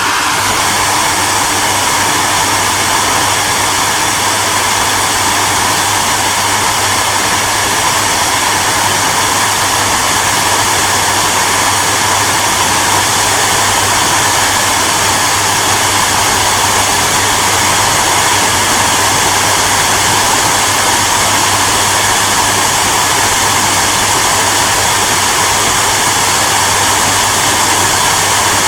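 Electric hairdryer running steadily: a constant airy rush with a low motor hum underneath.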